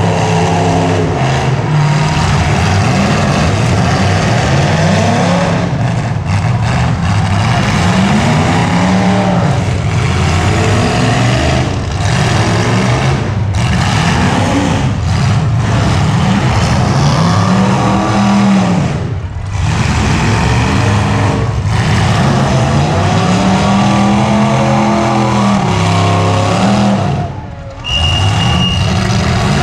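Several demolition derby cars' engines revving hard, the pitch rising and falling over and over as the cars accelerate, back up and ram, with a few brief drops when throttles are let off. Near the end a steady high tone starts and holds.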